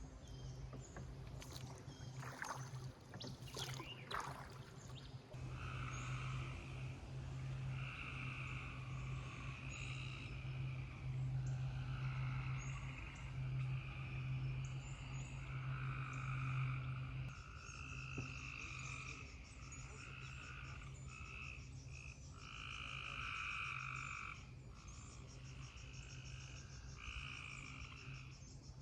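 Frogs calling in chorus, trains of croaks overlapping and repeating for seconds at a time, over a steady low hum that fades about two-thirds of the way through.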